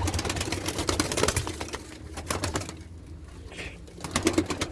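Pigeons moving about in a loft: a run of quick clicks and rustles, with a quieter stretch about halfway through.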